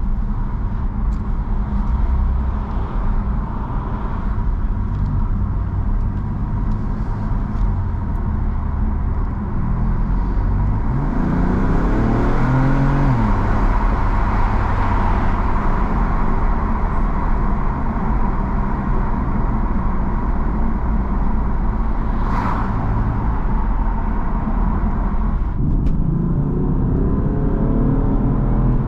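BMW M4 Competition's 3.0-litre twin-turbo inline-six driving along, with steady road and wind noise. About eleven seconds in the revs rise and then drop back. Near the end they rise again.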